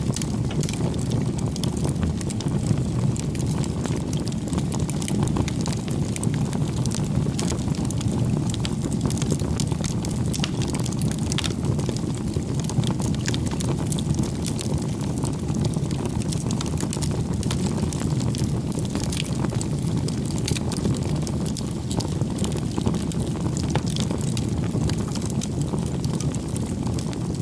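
Campfire burning: a steady low rush of flames with frequent small crackles and pops scattered throughout.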